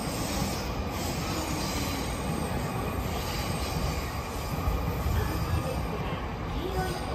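Takasaki Line commuter train running past on an elevated steel-and-concrete viaduct: a steady rumble of wheels on rails.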